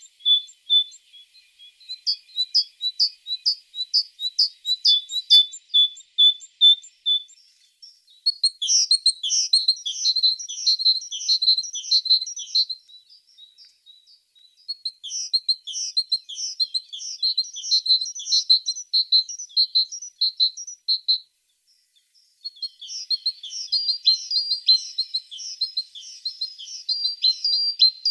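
Tits singing: a high note repeated a few times a second, then two-note phrases, then three long stretches of rapid, tumbling high notes with short pauses between them.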